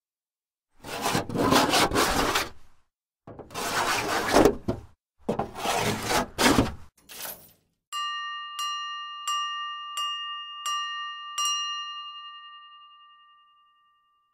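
Three rough scraping strokes, each one to two seconds long. Then a ringing metal object is struck six times, about two-thirds of a second apart, and its clear bell-like tone dies away over about two seconds after the last strike.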